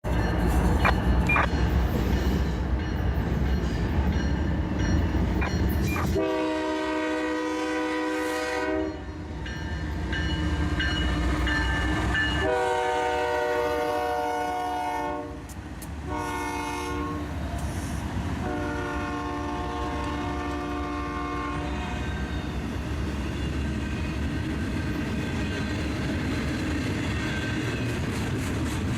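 Diesel freight locomotive running with a heavy rumble, then sounding its multi-chime air horn in a long, long, short, long pattern, the standard grade-crossing signal. The train rumbles on afterwards with wheels clattering over the rails.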